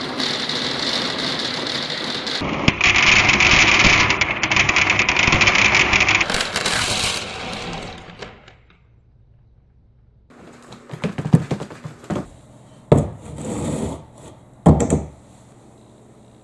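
Marbles rolling through a wooden and plastic-pipe marble run: a continuous loud rattling rumble that fades out about eight seconds in. After a short pause come several separate sharp clacks and knocks of marbles striking wood.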